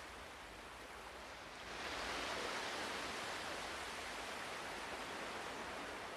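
Faint ocean surf: a steady wash of waves, swelling about two seconds in and then slowly easing off.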